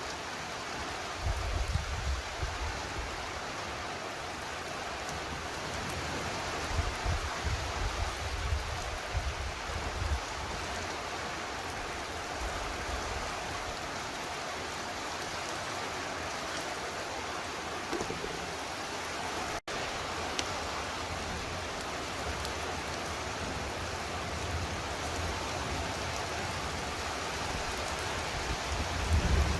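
Very heavy rain pouring down steadily, a dense even hiss, with low rumbles swelling up a few times: about a second in, again around a quarter of the way through, and near the end.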